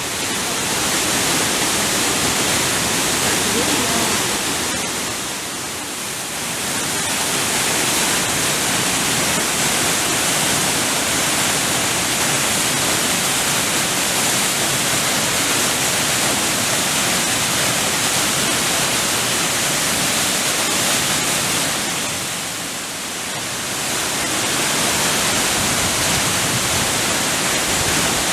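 Watagataki waterfall in the Tedori River gorge, a loud steady rush of falling water that dips briefly in level twice.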